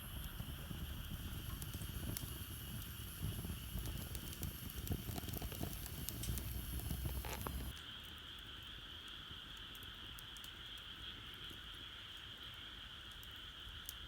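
Wood fire crackling in a Solo Stove Campfire stove, with a low rumble under it. About halfway through, the rumble cuts off abruptly, leaving a few sparse crackles over a steady high hiss.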